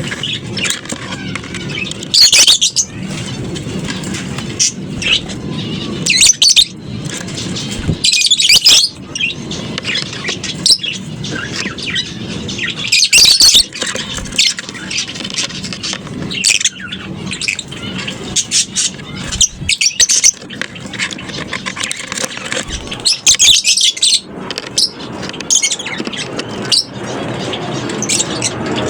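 A colony of lovebirds chirping and screeching: constant chatter broken every few seconds by loud, shrill bursts of calls.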